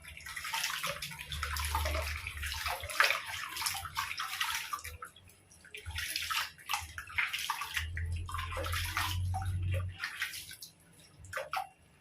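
Water splashing and sloshing in irregular bursts as a puppy is washed in a tub, with a short lull about five seconds in and fading near the end.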